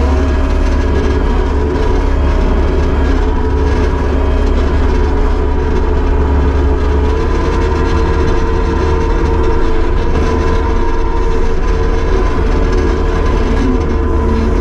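Kubota SVL75-2 compact track loader's four-cylinder diesel engine running steadily at working speed, its pitch stepping up slightly about halfway through.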